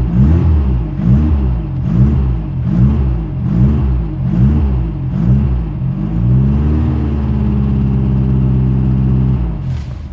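Cold 1.7-litre air-cooled Volkswagen Type 4 flat-four with dual Dell'Orto carburettors and no choke, running just after its first cold start: the revs rise and fall in a steady rhythm about once a second, then hold steady at a raised speed, and the engine stops near the end.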